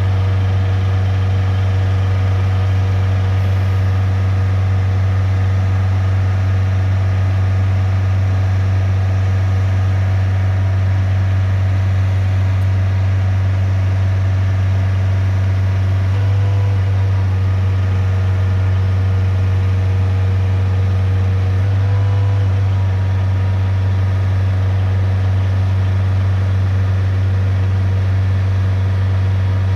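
Diesel engine of a side-loader truck running steadily, likely driving the container-lifting hydraulics, with a strong low hum and steady whining tones above it. Its pitch lifts briefly twice, about 16 and 22 seconds in.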